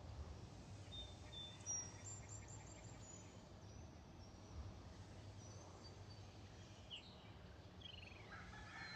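Faint outdoor ambience with scattered short bird chirps over a low steady rumble; a few quick rising bird notes come near the end.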